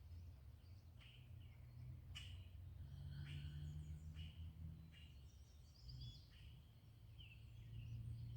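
Faint birdsong outdoors: scattered short chirps and quick falling calls from a few birds over a low steady rumble.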